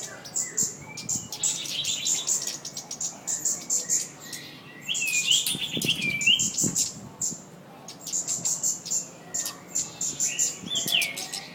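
Minivet (sepah putri) singing vigorously: a rapid string of high chirps, many a second, broken by short whistled notes that rise and fall near the middle and again near the end.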